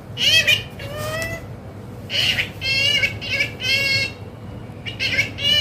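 Pet parrot calling: about eight short, pitched calls in quick bunches, some gliding up or down in pitch.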